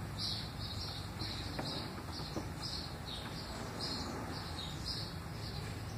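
A bird chirping repeatedly, short high chirps about two to three a second, over a faint low steady hum, with a couple of faint clicks from the distributor being handled.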